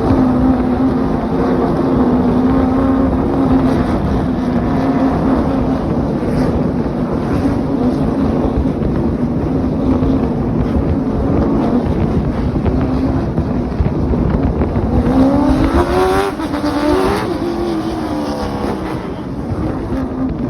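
Car engines running steadily at pace-lap speed, from the pace car and the late model stock cars following it, over a low rumble of road and wind noise. About 15 seconds in, the engine pitch climbs and then falls back over a couple of seconds, as one or more cars rev up and ease off again.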